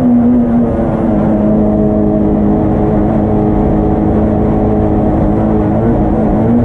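Yugo race car's engine heard from inside the cabin, pulling hard at high revs at a nearly steady pitch. The pitch dips briefly and recovers near the end.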